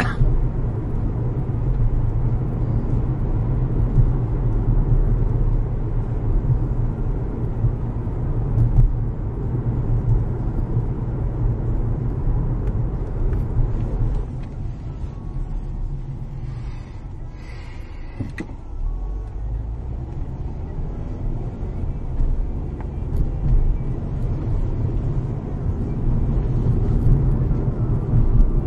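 Steady low rumble of a vehicle on the move, engine and road noise. It eases off for a few seconds around the middle, with a brief higher-pitched sound, then rises again.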